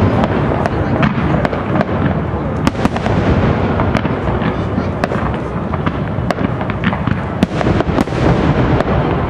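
Aerial fireworks shells bursting in a continuous display: a steady run of low booms with many sharp cracks and pops at irregular intervals.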